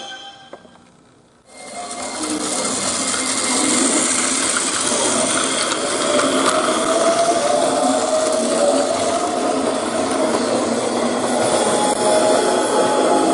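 Battery-powered Plarail toy train running on plastic track: its small electric motor whirs steadily with a faint whine. It starts about a second and a half in, as music fades out.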